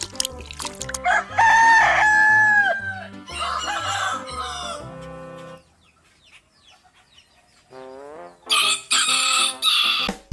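A rooster crows, one long held call that falls at the end, followed by a second shorter call, over background music with a repeating bass line. The music stops about halfway through, and three short harsh squawks come near the end.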